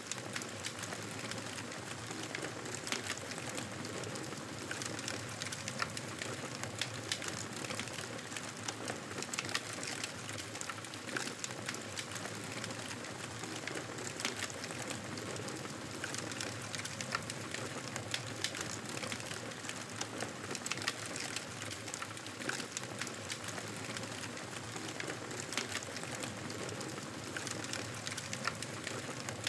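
Campfire burning: a steady hiss with frequent sharp crackles and pops scattered throughout.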